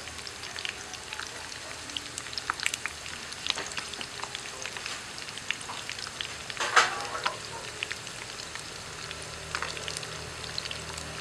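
Seasoned, once-sun-dried field rat meat frying in a pan of hot oil: a steady sizzle with frequent sharp crackling pops, the loudest a little past the middle.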